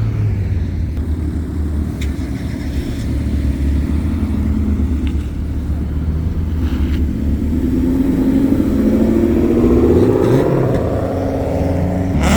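Car engines running at low revs as cars pull out. About seven seconds in, one car accelerates hard, its engine note climbing to a loud peak before easing off.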